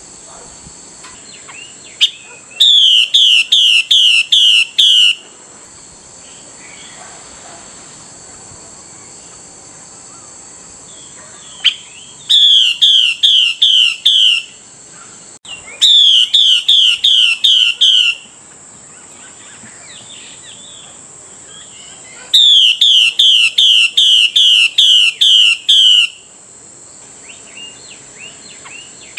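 Female Chinese hwamei (họa mi) giving its harsh calling phrase, the call a female uses to call a male: bursts of about six rapid, identical loud notes, each burst lasting two to three seconds, heard four times with pauses of several seconds between.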